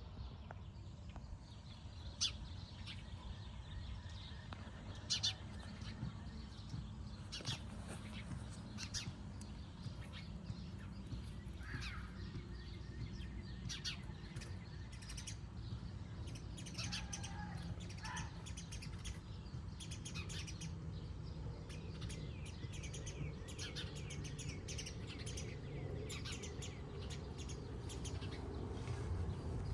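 Birds giving short, sharp chirps and calls again and again, alarm calls at kittens climbing in their nesting bush. A low steady rumble runs underneath.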